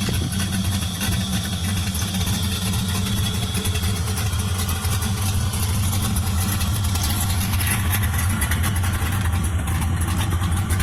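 Cammed Camaro's engine idling steadily through a full 3-inch exhaust.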